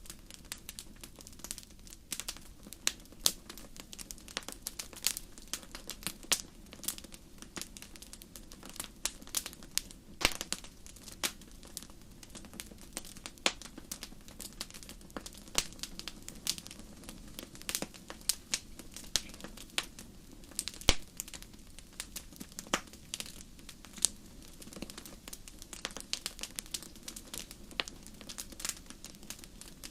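Fireplace fire crackling: irregular sharp pops and snaps, a few much louder than the rest, over a steady low rush.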